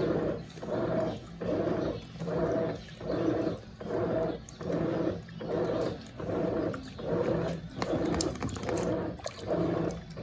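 Brastemp Eggo 1 kg mini washing machine agitating: its motor hums in short, even pulses, about three every two seconds, as it turns the impeller back and forth.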